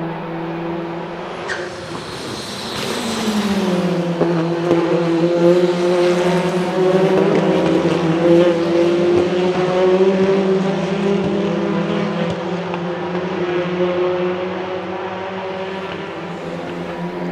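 Hyundai Elantra N's 2.0-litre turbocharged four-cylinder engine and exhaust running under way. About two seconds in a brief hiss sounds as the engine note drops a little; the note then climbs slowly and grows louder before easing off about twelve seconds in.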